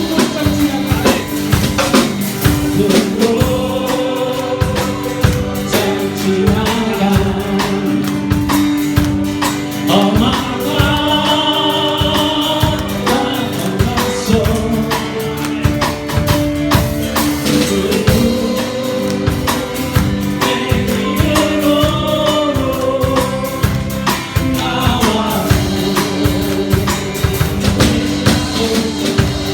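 Live church praise band playing a worship song: voices singing a melody over sustained chords and a drum kit keeping a steady beat.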